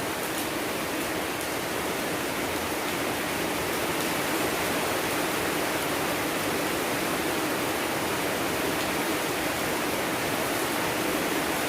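Steady, even rush of rainfall, a dense hiss without distinct drops.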